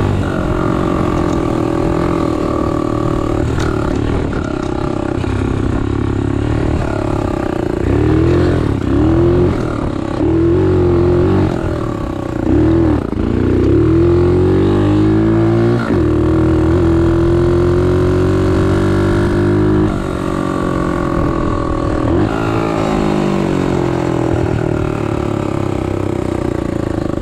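125cc pit bike's single-cylinder four-stroke engine under riding load, revving up and down: several quick blips in the middle, then a long steady pull rising in pitch before easing off about twenty seconds in.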